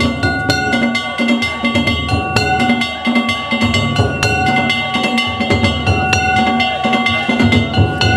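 Danjiri festival music: a taiko drum and metal hand gongs struck in a steady, rhythmic pattern, the gongs ringing on between strikes.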